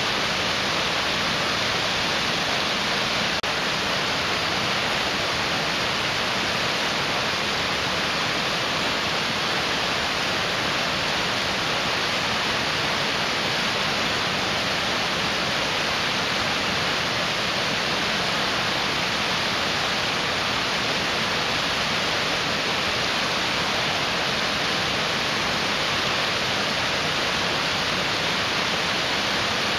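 Mountain stream rushing, a steady, even wash of water noise with no breaks.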